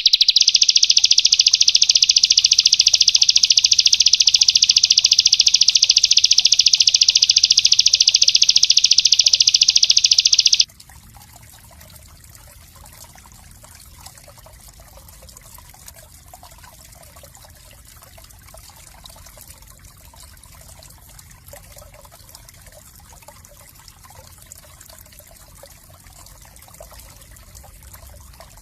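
A small songbird singing one rapid, unbroken high-pitched trill for about eleven seconds, which stops abruptly. A faint trickle of water remains after it.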